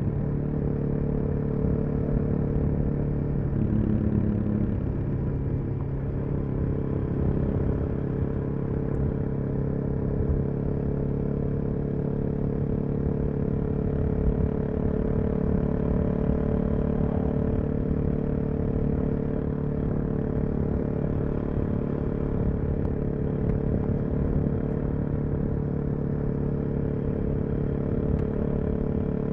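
Suzuki DR-Z400SM's single-cylinder four-stroke engine through a full Yoshimura exhaust, running at an even cruising speed. The pitch shifts a little in the first few seconds, then holds steady.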